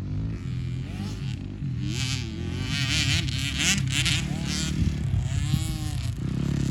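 Dirt bike engines revving on a motocross track, their pitch rising and falling through the gears and corners, several bikes overlapping and getting gradually louder.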